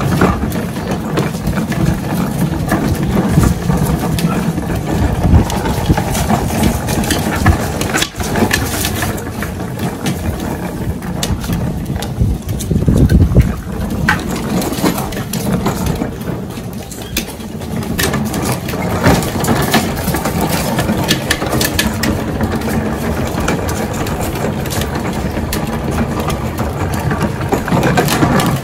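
Plastic wheels of a Little Tikes toy ride-on police car rolling over hard ground, a steady rough noise with occasional knocks.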